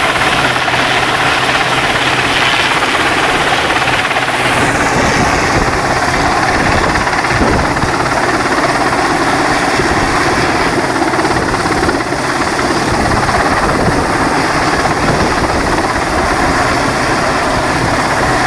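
Helicopter hovering: a loud, steady din of its rotors and turbine engine.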